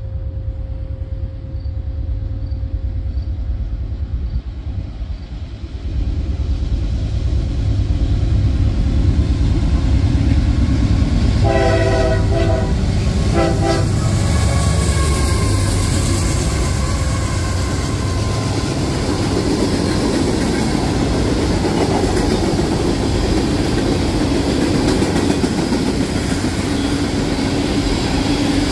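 A diesel train's heavy low rumble swells as it approaches and passes close by. Its horn sounds a longer blast and then a short one about halfway through, and loud wheel-on-rail noise carries on to the end.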